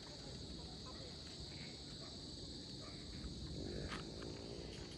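Steady, shrill drone of insects such as crickets. A short, low pitched sound rises over it about three and a half seconds in.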